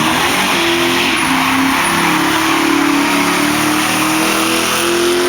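Car engine held at high revs in a steady drone that wavers and creeps up slightly, over a broad hiss of spinning, squealing tyres: a burnout.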